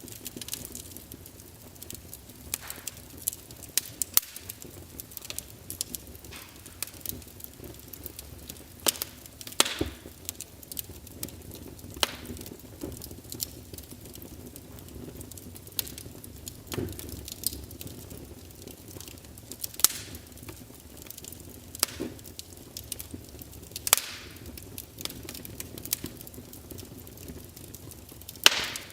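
Wood fire of burning logs crackling, with irregular sharp pops and snaps over a soft steady hiss.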